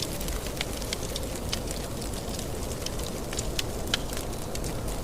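Wood fire crackling in a fireplace, with scattered sharp pops and snaps over a steady low rumble of wind.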